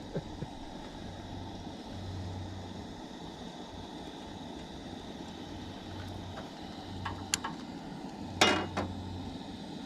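Camp stove burner running with a steady low rush under a lidded pan of simmering pasta, with a few light clicks about seven seconds in and a short clatter of cookware near the end.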